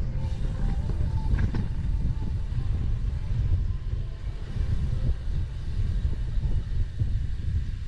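Wind buffeting the microphones of a bicycle-mounted 360 camera while riding: an uneven low rumble, with a few faint clicks and short tones in the first couple of seconds.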